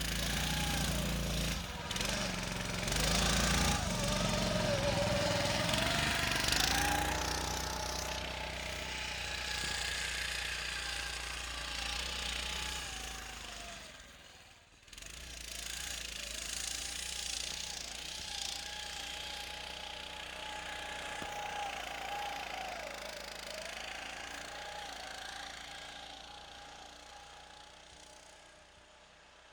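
Motorized snow scooter's small engine running under load, its pitch rising and falling as the throttle changes. It cuts out abruptly about halfway through, comes back, and fades away over the last few seconds.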